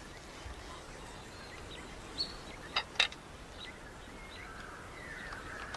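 Quiet outdoor ambience with faint, short bird chirps, and three sharp clicks or knocks about two to three seconds in.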